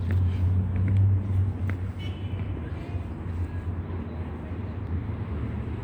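Road traffic: a low vehicle engine rumble, loudest for the first couple of seconds and then easing off.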